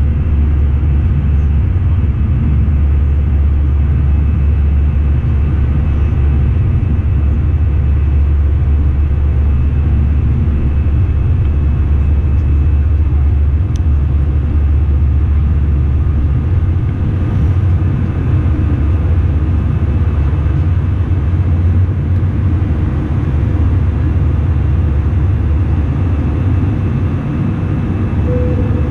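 Airbus A319 cabin noise: the steady low rumble of the jet engines and airflow, heard from inside the passenger cabin.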